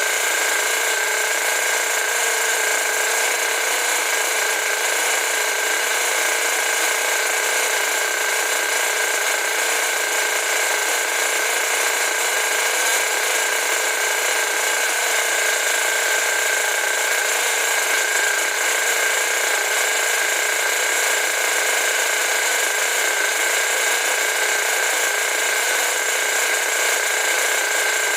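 Rebuilt Force .32 nitro engine running steadily: a loud, unbroken high-pitched buzz that holds the same pitch throughout.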